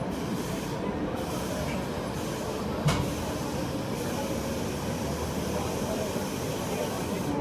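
Steady train noise heard inside a coach of the Sampoorna Kranti Express, an even rumble and hiss, with one sharp knock about three seconds in.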